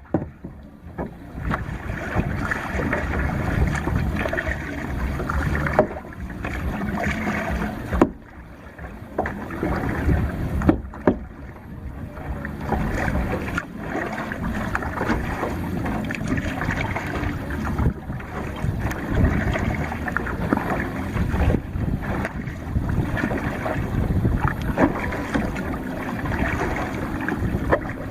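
Water sloshing and splashing around a kayak as it is paddled, with wind rumbling on the microphone and a few sharp knocks along the way.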